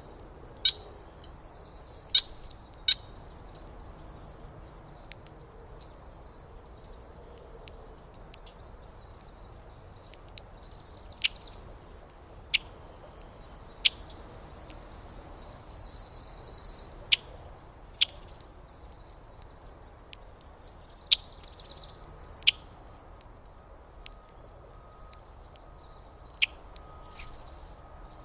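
Birds calling: a dozen or so sharp, high, single chip notes at irregular intervals, with softer twittering song behind them now and then.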